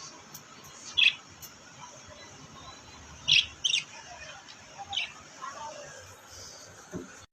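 A parrot chirping in short, sharp, high-pitched calls: one about a second in, a quick pair a little past three seconds, and another at about five seconds.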